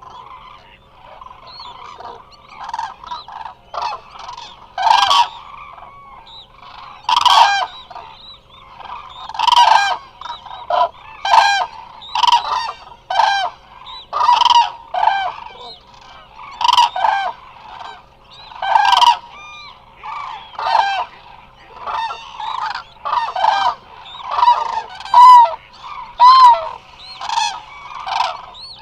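A large flock of Eurasian cranes calling: loud trumpeting calls, many birds overlapping, repeated every second or two.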